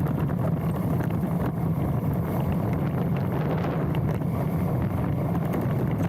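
Mountain bike rolling fast down a dirt trail: steady wind rush on the handlebar-mounted camera's microphone, mixed with the low rumble and small rattles of the tyres and bike over the ground.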